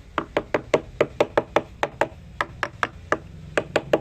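A rapid, slightly uneven series of sharp knocks, about five a second, with about eighteen strikes in all, typical of repeated tapping or hammering on a hard surface.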